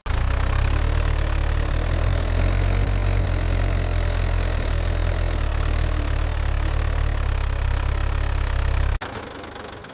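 An engine running steadily with a heavy low rumble. It starts abruptly and cuts off about nine seconds in.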